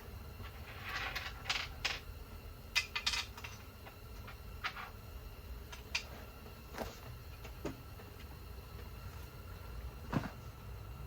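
Scattered clicks and clinks of metal tools and engine parts being handled during an engine tear-down, about ten separate knocks, the loudest about three seconds in and near the end, over a steady low hum.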